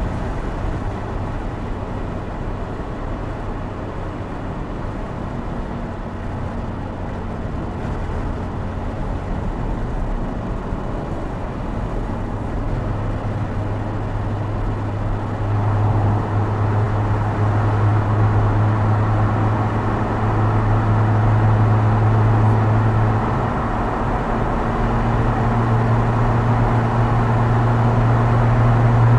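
Opel Speedster Turbo's turbocharged 2.0-litre four-cylinder engine pulling at steady revs, heard from inside the open cabin. The note grows louder about halfway through as the car drives into a road tunnel, then dips briefly about three quarters of the way in before it picks up again.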